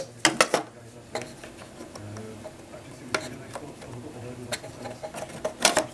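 A scattered series of sharp clicks and knocks from hard objects being handled, with a quick cluster near the end. No motor is running.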